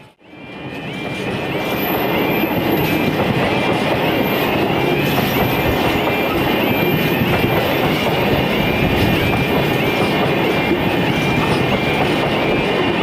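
Freight train wagons rolling past steadily on the rails, with a short high wheel squeal repeating about every half second. The sound fades in from a brief dip right at the start.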